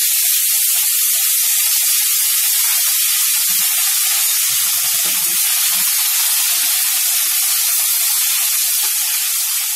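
Chopped tomatoes frying in hot oil in a kadai: a loud, steady sizzle, with a few soft knocks from a wooden spatula stirring them.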